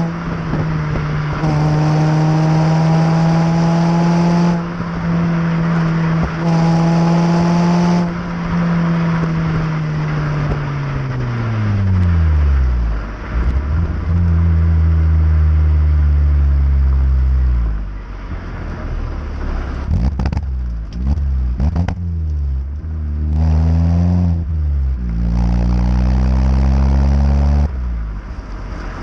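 Vauxhall Astra H 1.8 VVT four-cylinder petrol engine through a stainless cat-back exhaust, pulling at high revs with the pitch creeping up. About ten seconds in the revs fall away steeply to a low drone. Near the end it rises again in several short pulls with breaks between them.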